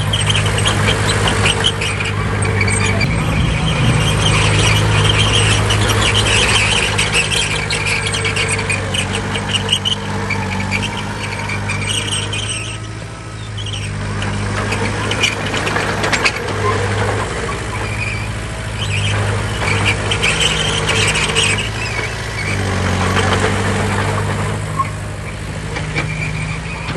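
Heavy diesel earthmoving machinery working: a steady engine drone with dense metallic rattling over it, easing off briefly about halfway through.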